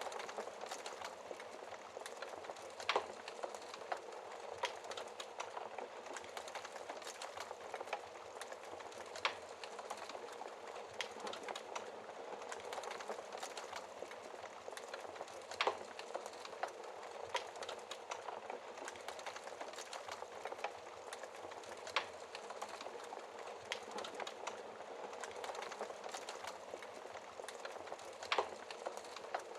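Wood fire crackling: a steady hiss of burning with many small crackles and a louder pop about every six seconds.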